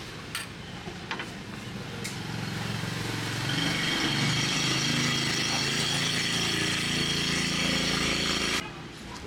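Motorbike engine running, growing louder about two seconds in and holding steady before cutting off suddenly near the end. A few light clicks come before it.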